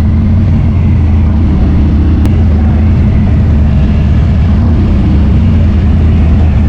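Harley-Davidson V-twin with an aftermarket Thumper Moto exhaust pipe, running steadily and loudly under way on the road.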